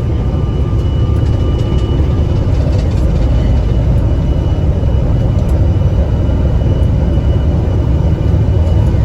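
Steady low rumble of a vehicle driving at highway speed, with a faint thin whine above it.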